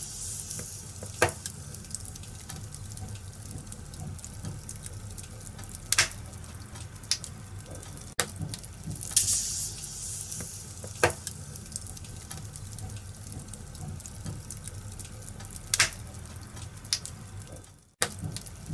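Wood fire in a fireplace crackling, with sharp pops every few seconds and a hiss about halfway through, over a steady low rumble. The sound cuts out briefly near the end.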